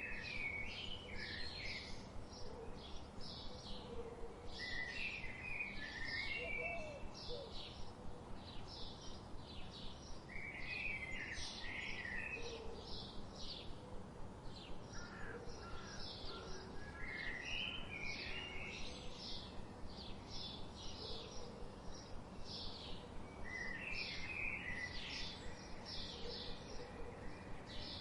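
Birds chirping: a steady stream of quick, high, short chirps, with a lower warbling phrase coming back every few seconds, over a faint steady background hiss.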